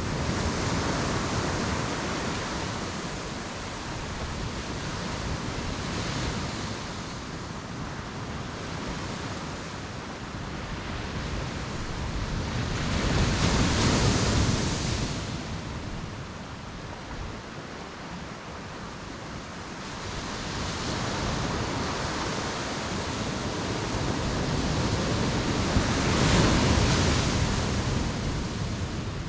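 Sea waves breaking on the beach and washing back. There are three big surges about twelve seconds apart: one at the start, one about halfway through, and one near the end, with a softer rushing wash between them.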